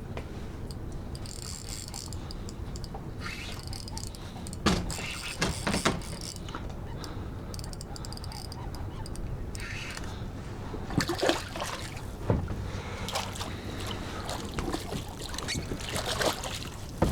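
Water splashing and trickling at close range, with a few sharp knocks and clatters from handling gear on the kayak.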